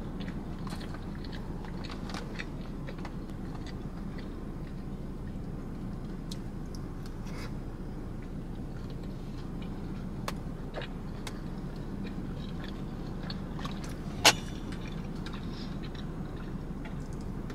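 Close-up chewing and eating sounds with faint scattered clicks over a steady low hum, and one sharper click about fourteen seconds in.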